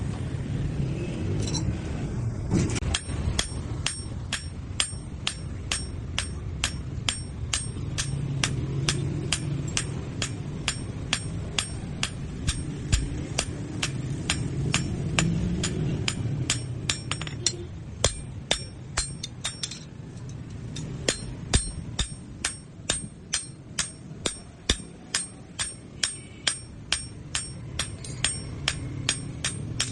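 Hammer blows ringing on steel at an anvil, evenly paced at about three strikes a second, with a short pause a little past halfway before the hammering resumes. A steady low rumble runs underneath.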